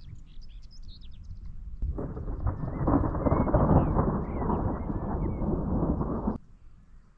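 Thunder rumbling: a low rumble that swells sharply about two seconds in into a loud, long peal, then cuts off suddenly near the end. Birds chirp faintly near the start.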